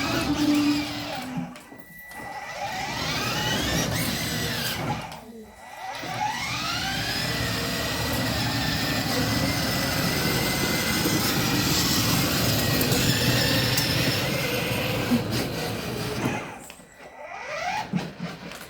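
A small motor running in stretches with a rising whine as it speeds up. It stops briefly twice early on and dies away near the end.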